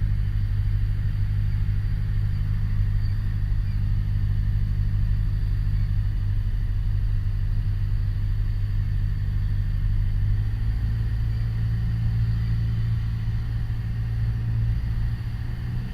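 Piper PA-28 Warrior's four-cylinder Lycoming engine and propeller droning steadily in the cabin on final approach, its note shifting slightly about ten seconds in.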